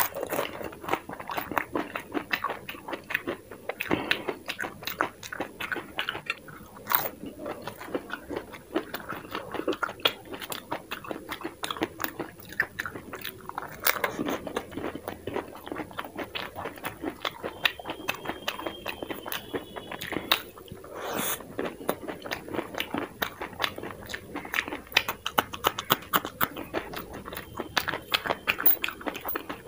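Biting and chewing of dahi puri: crisp fried puri shells topped with yogurt, crunching with many quick crackles as they are chewed, with a fresh mouthful taken about halfway through.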